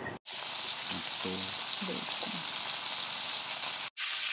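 Thick-cut bacon and vegetables sizzling in oil in a frying pan over a gas burner as they are stirred, a steady frying hiss that cuts out briefly twice.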